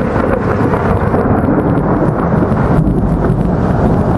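Loud thunder rumbling continuously, a deep rolling rumble that follows a lightning flash.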